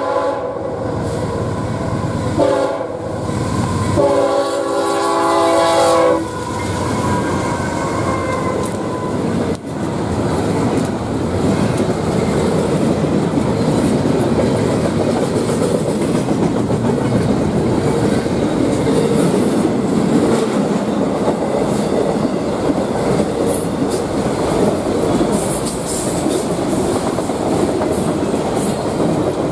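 CSX freight locomotive horn sounding several notes at once, with a short break about two and a half seconds in, then cutting off about six seconds in. After that, the steady rumble and wheel clatter of double-stack intermodal cars and autorack cars rolling past the grade crossing.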